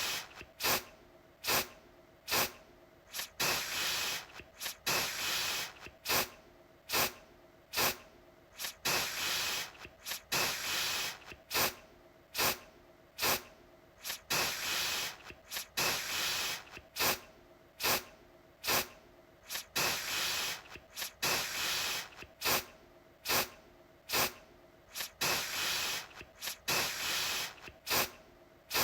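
Aerosol deodorant can spraying in short, repeated bursts, about one or two a second, each a sharp hiss that trails off.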